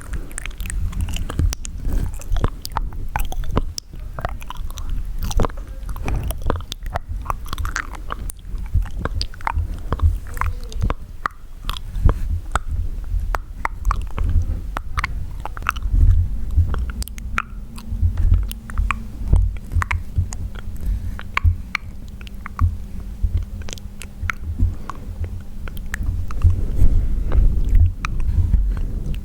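Close-miked wet mouth sounds: a dense run of quick tongue clicks and lip smacks with soft low thuds beneath.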